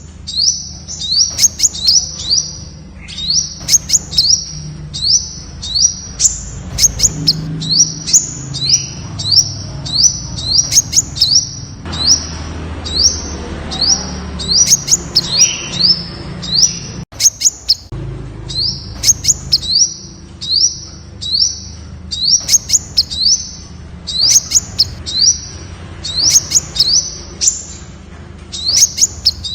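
Temminck's sunbird singing: a long, rapid series of short, high, thin notes, each sweeping upward, two or three a second, with a low hum beneath.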